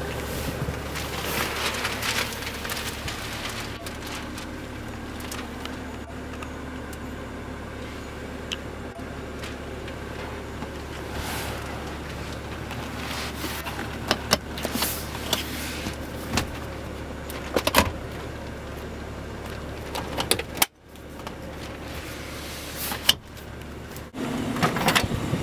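Steady low hum inside a car cabin, with scattered sharp clicks. The sound drops out briefly about twenty seconds in.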